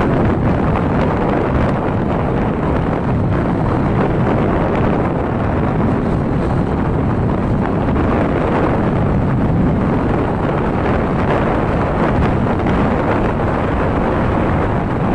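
Steady wind buffeting the microphone on a moving motorbike, with the bike's running sound underneath.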